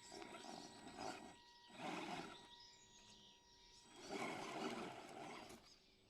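Electric RC scale truck driven in short bursts of throttle, its motor and tyres grinding over the ground in four surges, the longest about four seconds in.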